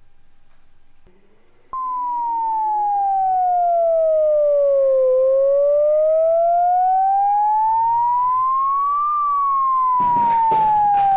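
Electronic siren: one pure tone that starts abruptly about two seconds in and wails slowly, gliding down, then up, then down again. A short clatter of clicks joins it near the end.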